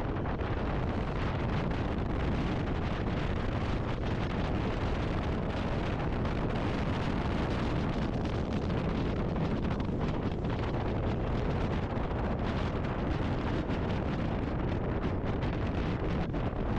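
Wind rushing steadily over the microphone of a moving motorcycle, with the bike's engine running underneath.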